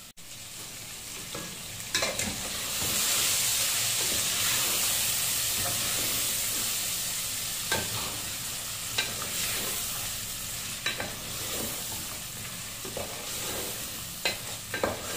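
Chicken pieces with onions and masala sizzling hard in hot oil in an aluminium pot on a high flame, while a wooden spatula stirs them. The spatula scrapes and knocks against the pot now and then. The sizzle swells about two seconds in and stays loud: the high-heat bhuna stage, browning the marinated meat.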